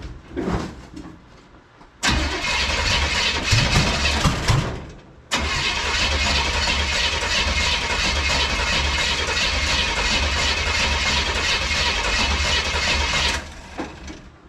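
Race-built small-block V8 being cranked on the starter in two tries, a short one of about three seconds and then a long one of about eight, each starting suddenly with an even pulsing beat. It does not catch: the fuel is not yet primed.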